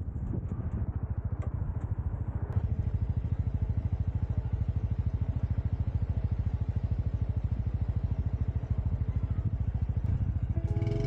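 Motorcycle engine running steadily with a rapid, even chugging pulse.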